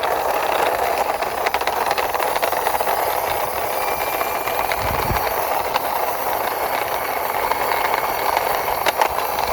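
A toy crane truck's wheels rolling and rattling along a wall as it is pushed by hand. The noise is steady, with many small clicks, and there is one low thud about halfway through.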